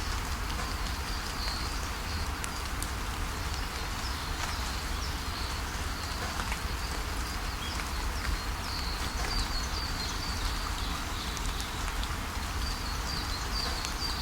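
Steady rain falling, with a bird chirping now and then in short runs of quick high notes.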